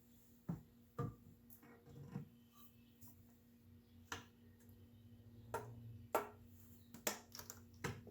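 Scattered light knocks and clicks, about eight in all, as an Injen cold air intake tube is handled and fitted into place, over a faint steady hum.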